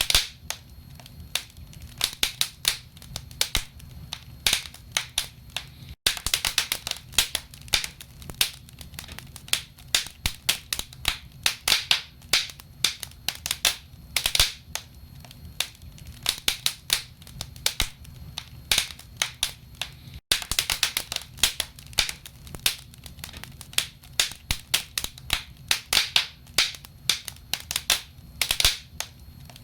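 Wood fire burning in a fireplace: logs crackling and popping with many irregular sharp snaps over a low steady rumble. The sound drops out for an instant twice.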